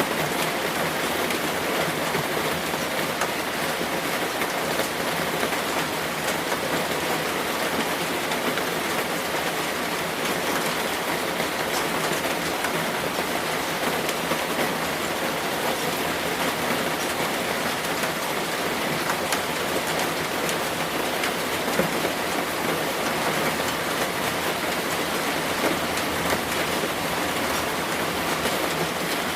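Steady, even rain falling, a continuous hiss of drops on a surface.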